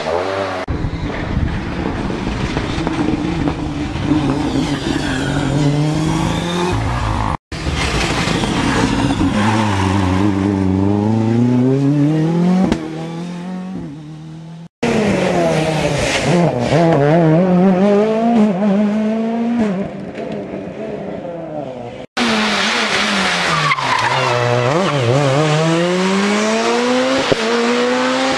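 Rally cars driving a special stage, engines revving hard and rising and falling in pitch through gear changes. The sound is four separate car runs, joined by sudden cuts.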